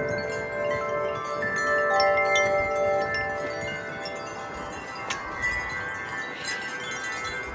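Wind chimes ringing in a strong wind, struck at irregular moments, with several clear notes overlapping and ringing on. A low rush of wind sits beneath them.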